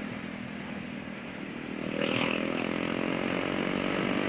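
KTM 390 Duke single-cylinder engine running under way, mixed with wind noise on the mic. About two seconds in the engine gets louder and its note comes through more clearly as the rider gets on the throttle.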